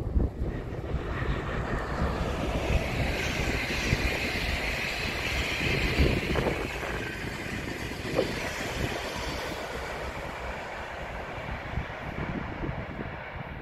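DB ICE 1 (Class 401) high-speed train passing, a rush of wheels on rail that builds, peaks midway and fades as the train draws away. Wind buffets the microphone throughout.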